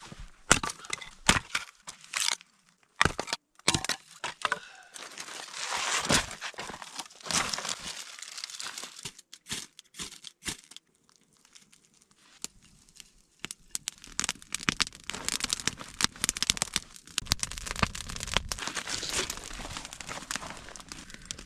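Dry twigs and small branches being snapped and broken for kindling: irregular sharp cracks and crunches, with a quieter stretch about halfway through.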